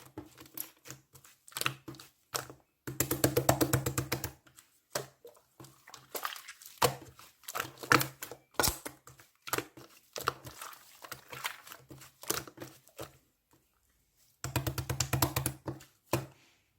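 Pink slime being pressed and squished by hand, giving trains of rapid crackling clicks and pops with short pauses between; the two longest, loudest runs come a few seconds in and near the end.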